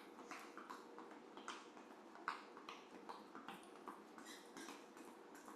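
Faint, light footfalls of athletic shoes on the floor during a light cardio move, about two to three soft taps a second, over a low steady hum.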